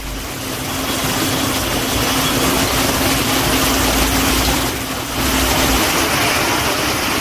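Heavy rain pouring and splashing on a waterlogged road, an even hiss, with a motor vehicle's engine humming steadily underneath until about six seconds in.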